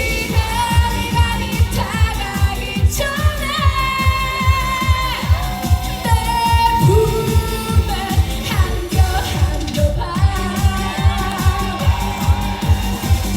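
Live Korean pop dance song: a woman singing long held notes over a backing track with a steady fast kick-drum beat, played through the stage sound system.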